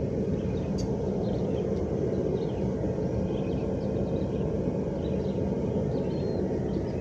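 Forge running with a steady, even rush heating a knife blade in its fire, with faint bird chirps over it.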